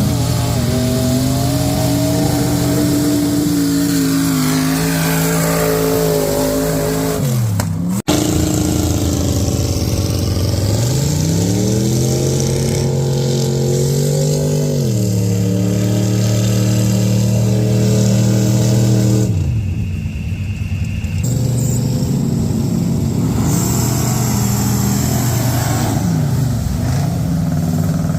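Mud truck engine revving hard and holding high revs, the pitch falling away about seven seconds in. After a cut it climbs again, holds high, drops twice, and runs lower near the end.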